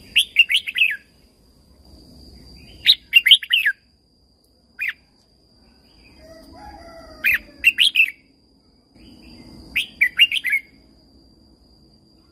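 Red-whiskered bulbul singing short phrases of quick warbled notes, repeated every two to three seconds with a single lone note between them. A thin steady high tone runs underneath.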